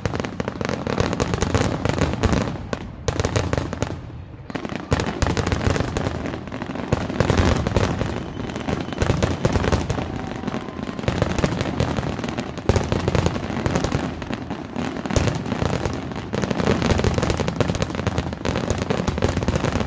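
Aerial fireworks display: a dense, continuous barrage of shell bursts and crackling, with a brief lull about four seconds in.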